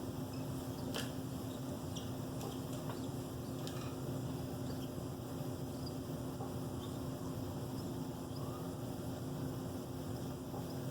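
Faint, short high squeaks from baby cockatiels, scattered over a steady low hum.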